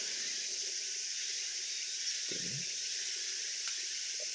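A steady, shrill chorus of summer insects, a dense high-pitched buzz with no break. A brief low sound comes a little past two seconds in.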